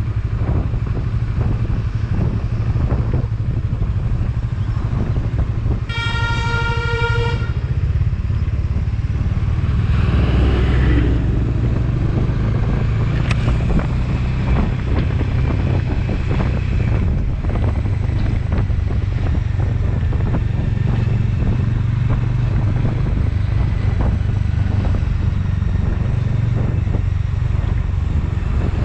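Motorcycle engine running steadily under way, with wind on the microphone. A vehicle horn sounds once, a single steady note held for about a second and a half, some six seconds in.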